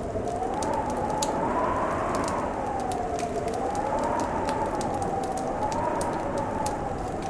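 Fireplace crackling with scattered sharp pops, over a howling wind whose pitch slowly rises and falls.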